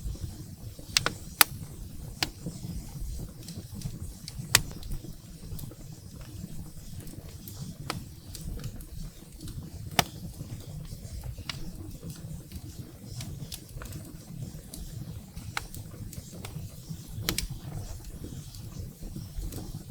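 Firewood burning in a fireplace: sharp, irregular crackles and pops over a low, steady rumble of the flames, with a few pops much louder than the rest.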